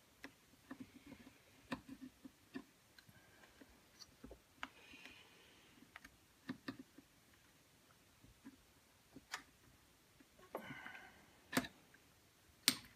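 Irregular light clicks and taps of small chainsaw parts being handled and fitted during reassembly of a Husqvarna 181's carburetor and intake, with a couple of brief rustles and two sharper clicks near the end.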